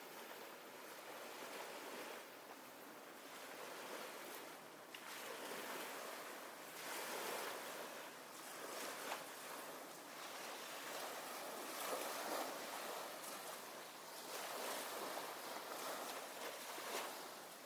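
Small waves washing onto a sandy bay beach, the wash swelling and easing every few seconds.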